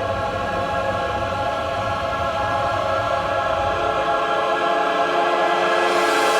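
Orchestral film score with a choir holding long sustained chords, growing slowly louder; the low rumble underneath drops away about four seconds in.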